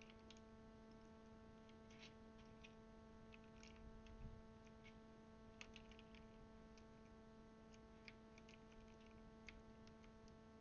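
Near silence with faint, irregular small plastic clicks of keycaps being handled and pressed onto mechanical keyboard switches, over a steady electrical hum.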